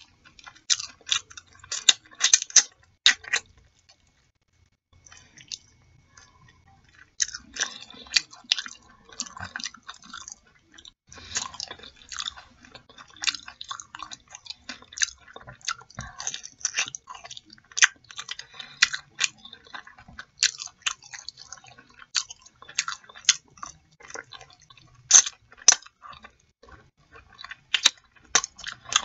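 A person chewing and biting chicken with mumbo sauce close to the microphone: many short sharp clicks throughout, with a brief pause about three and a half seconds in.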